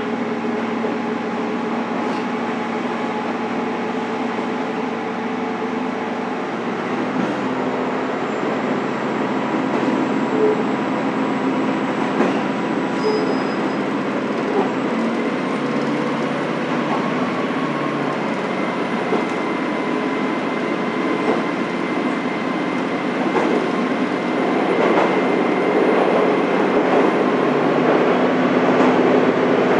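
A diesel railcar running on the San'in Main Line, heard from inside the passenger cabin: a steady engine drone under the rumble of wheels on the rails. It grows louder in the last few seconds.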